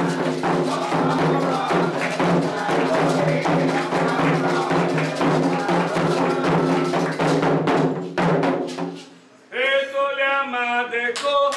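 Candomblé atabaque drumming with sharp struck accents and group chanting, played for Oxóssi, which fades out about nine seconds in. A single voice then begins a new sung chant.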